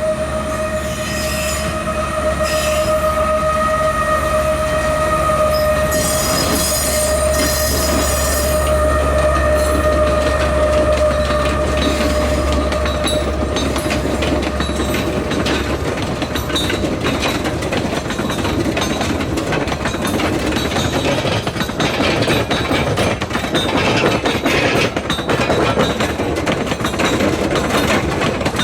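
Sugar cane train on the narrow-gauge tramway passing: a steady high wheel squeal over the diesel locomotive's low hum for about the first twelve seconds, then the cane wagons' wheels clattering over the rail joints.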